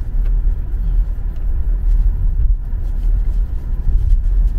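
Steady low rumble inside a moving car: road and engine noise with the cabin ventilation fan blowing.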